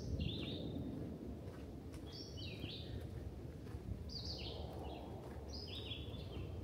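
A songbird sings the same short, high phrase of a few quick stepped notes four times, about every two seconds, over a steady low background noise.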